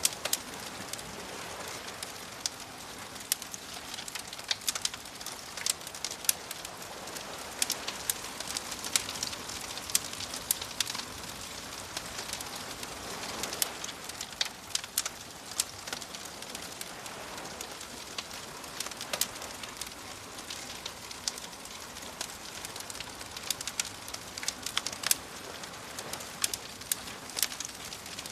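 Wood fire crackling, with frequent sharp, irregular pops over a steady hiss, layered with soft ocean waves washing underneath.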